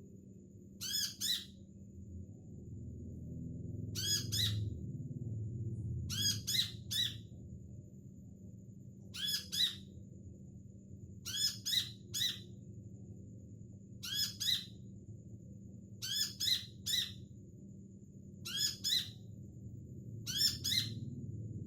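Recorded sunbird call notes played as a lure: short, sharp calls in groups of two or three, repeating about every two seconds. A faint steady hum and a thin high whine run underneath.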